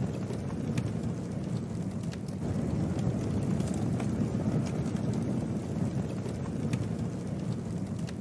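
Campfire burning, with scattered sharp crackles and pops at irregular moments over a steady low rushing.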